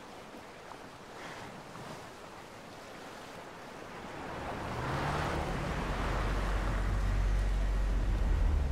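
A low rumbling swell with a hiss of noise over it, building from about four seconds in and cutting off abruptly at the end.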